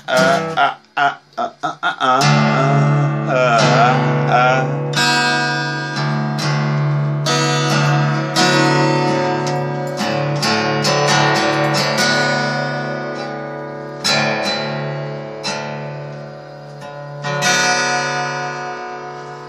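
Acoustic guitar strummed in a steady rhythm, its chords ringing, with a short wordless vocal about four seconds in.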